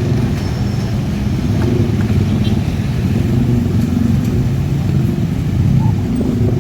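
Motor vehicle engines running steadily, a continuous low hum with no clear start or stop.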